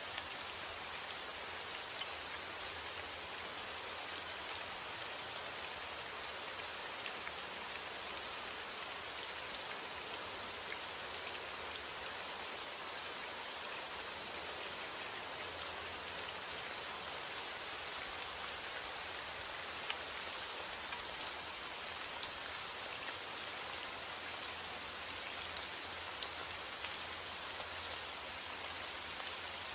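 Steady rain falling, a dense even hiss of drops with scattered small ticks of individual drops hitting a surface.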